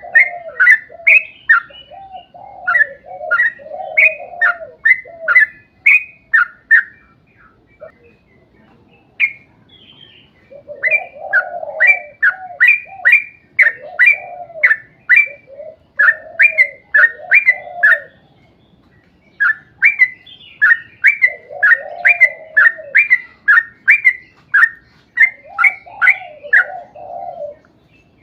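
Yellow-vented bulbul (trucukan) singing in long runs of rapid, short chirping notes, with lower, fuller notes woven in. The runs break off briefly about a third of the way through and again about two-thirds through.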